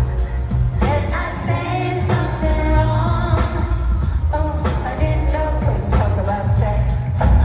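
Live pop concert performance: a sung vocal line over a full band mix with strong, steady bass.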